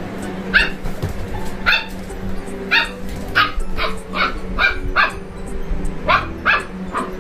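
German Shepherd puppy giving about a dozen short, high-pitched barks in irregular bursts, with background music underneath.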